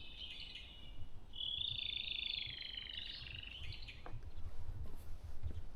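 High, rapid trilling calls from a small bird: one trill tails off just under a second in, and a longer one runs from about a second and a half to nearly four seconds. A low rumble sits underneath, with a faint click or two near the end.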